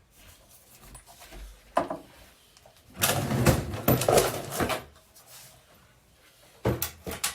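Brass rifle cartridge cases clinking and rattling as they are handled and sorted, with a few single clinks and a longer burst of rattling in the middle.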